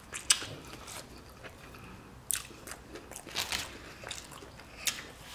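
A person biting into and chewing a mouthful of sub sandwich close to the microphone, with a handful of sharp, wet mouth smacks spread through.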